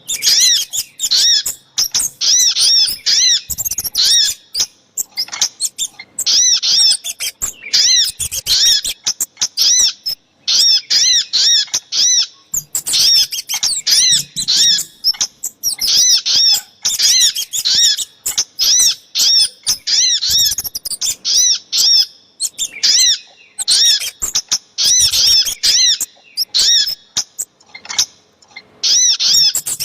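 Bird-lure recording of sogok ontong and kemade calls: rapid runs of sharp, high chirps, each a quick arched note, in bursts of several notes with short pauses between, repeating throughout.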